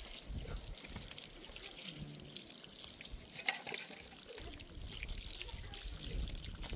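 Water trickling, with a few light clicks and one sharper knock about three and a half seconds in.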